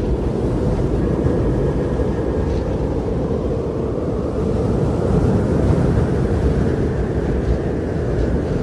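Strong blizzard wind blowing in a steady, deep rush that swells a little around the middle.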